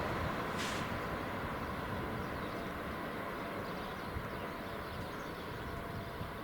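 A passing train's rumble fading away as it leaves the level crossing, with a short hiss about half a second in.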